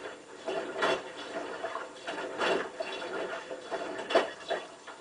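Hotpoint WT960 washing machine drum turning with water sloshing inside, a swishing surge about every second and a half.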